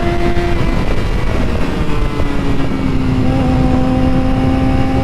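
Motorcycle engine running while riding, with wind rush on the helmet microphone. The engine's pitch drops about half a second in, then holds steady.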